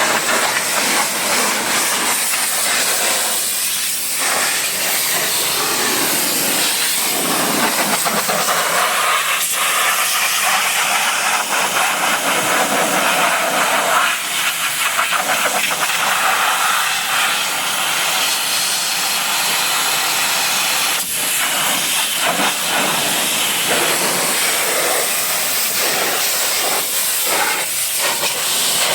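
Pressure washer jet spraying water, a loud continuous hiss whose tone shifts now and then.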